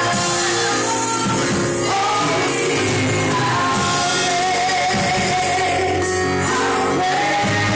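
Live gospel worship music in a church: voices singing with band accompaniment, with one long held note in the middle. The recording is loud and steady.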